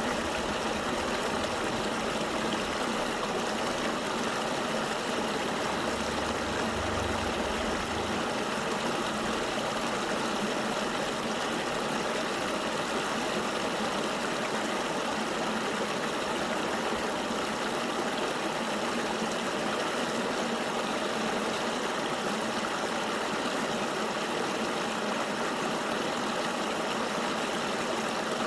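River water flowing steadily: an even, unbroken rushing noise.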